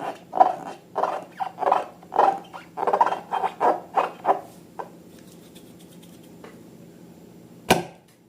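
Slime squelching as it is squeezed and worked by hand, in short wet bursts about twice a second that stop about four and a half seconds in. A single sharp click comes near the end.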